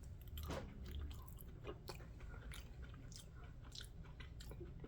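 A man chewing a mouthful of cold cooked broccoli rabe, faint, with scattered small mouth clicks.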